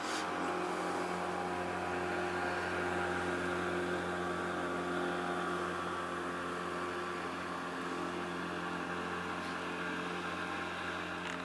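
Engine running at a steady pitch, a low hum with a stack of overtones and no change in speed.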